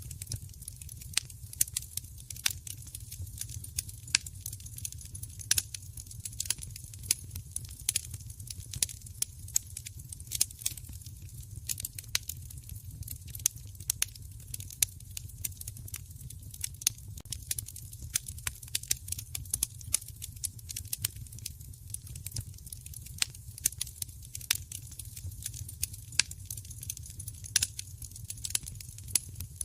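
Wood fire crackling in a fireplace: many sharp, irregular pops and snaps, several a second, some much louder than the rest, over a steady low rumble of the burning fire.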